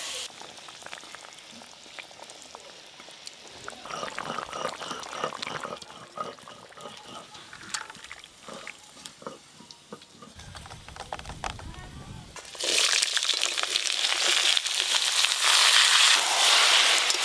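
Bottle gourd cubes frying in hot oil in an aluminium wok, a loud steady sizzle that starts suddenly about two-thirds of the way in. Before it, a quieter stretch of scattered clicks of utensils and cookware.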